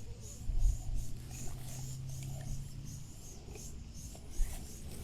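Faint handling sounds as paracord is threaded through the gills of caught tilapia to make a fish stringer, a few soft low knocks among them, over a low steady hum that stops about three seconds in.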